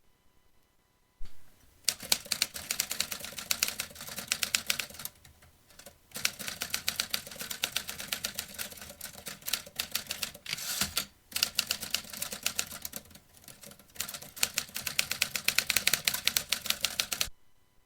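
Vintage typewriter being typed on in quick runs of crisp keystrokes, several a second, with brief pauses between runs. It stops shortly before the end.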